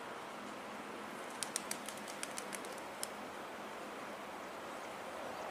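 A diesel-hauled passenger train approaching in the distance: a steady hiss of running noise that grows louder near the end. A quick run of about eight sharp, high ticks sounds over it about a second and a half in.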